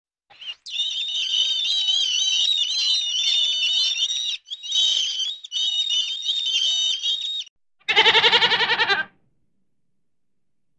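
Several seconds of dense, high-pitched bird twittering, then a single quavering goat bleat lasting about a second near the end.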